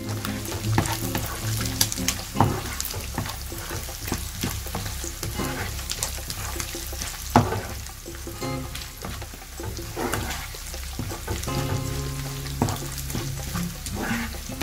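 Shrimp and diced bacon sizzling in a nonstick frying pan as they are stirred with a spatula, with occasional sharp clicks of the spatula against the pan. Background music plays underneath.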